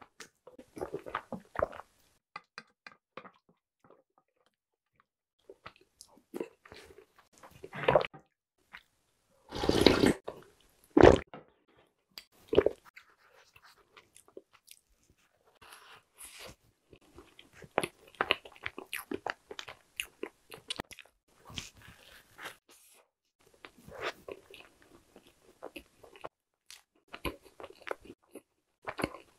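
Close-miked chewing and eating sounds of soggy chocolate snack soup and soft chocolate bread, coming in scattered clusters with short pauses between. A few louder sudden sounds stand out around ten and eleven seconds in.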